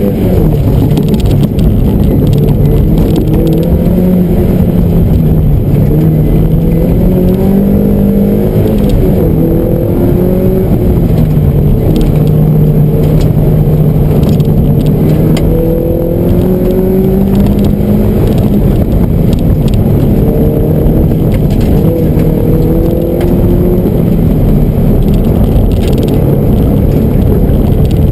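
Mazda Miata's 1.8-litre four-cylinder engine heard from inside the cabin on an autocross run. It revs up sharply at the start, then its pitch keeps rising and falling as the car accelerates and lifts between cones.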